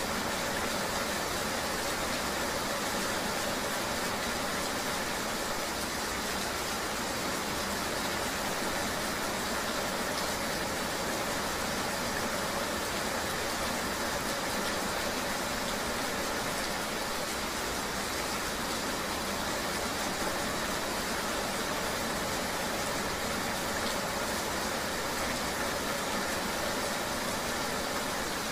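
Steady rain-riding ambience: an even wash of rain noise with the steady hum of a running vehicle engine under it, unchanging throughout.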